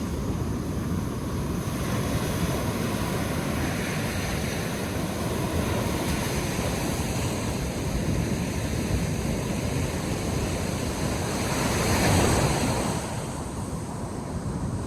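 Sea surf washing onto a sandy beach in a continuous rush, with wind on the microphone; one wave breaks louder about twelve seconds in.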